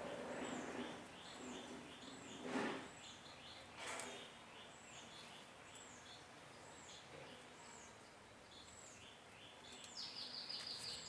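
A small bird calling over and over, a short high note about once every two-thirds of a second, with a quick falling trill near the end. Two sharp knocks sound a little after two seconds and about four seconds in.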